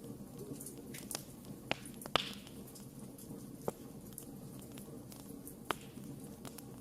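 Wood fire crackling: a steady low rumble of burning with sharp pops and snaps scattered through it, the loudest a little over two seconds in.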